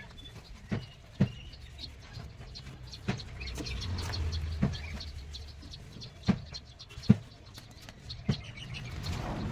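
Sharp knocks at uneven spacing, about seven in all, typical of tool strikes in woodworking. A low hum swells and fades in the middle.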